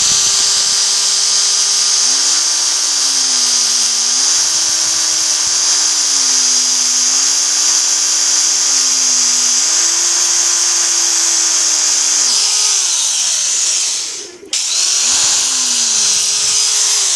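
Electric drill running under load, likely boring a 5 mm hole through a steel M6 bolt; its pitch sags and recovers as the bit bites. About twelve seconds in it is switched off and winds down, then it starts again about two seconds later.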